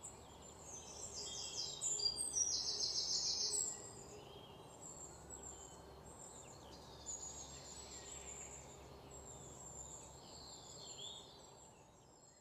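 Faint birdsong: fast high chirping trills, loudest in the first few seconds, then scattered chirps over a low steady background noise.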